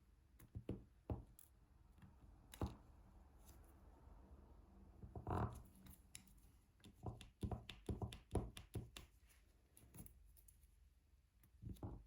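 Faint scattered clicks and taps of a diamond-painting drill pen picking up drills and pressing them onto the canvas, with a quicker run of taps a little past the middle.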